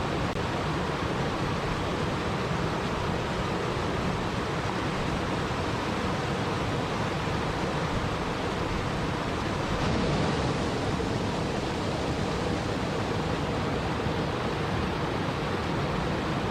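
Steady rushing of water, an even hiss-like wash with no separate drops or splashes, swelling slightly about ten seconds in.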